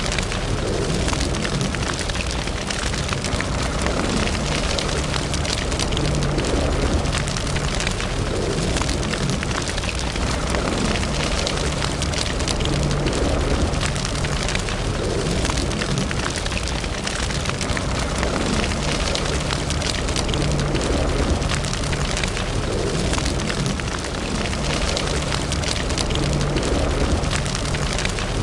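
Wood fire burning in a fireplace: a steady low rumble of flames with constant, dense crackling.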